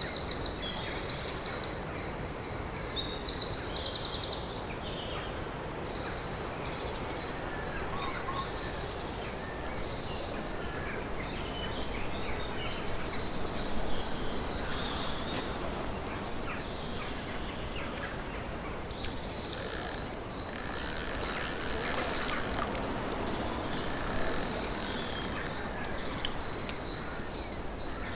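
Woodland birds singing and calling, many short chirps and trills, over a steady rushing background noise.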